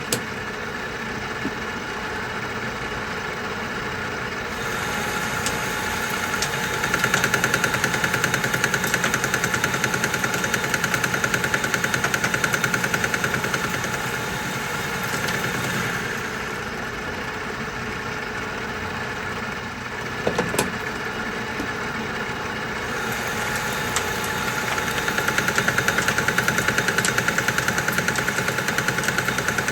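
Metal lathe running at about 600 RPM while a carbide-tipped boring bar cuts steel, boring out a large hole. The cutting noise comes in two long passes with a fast, even pulsing, with a quieter stretch between them and a short clunk about twenty seconds in.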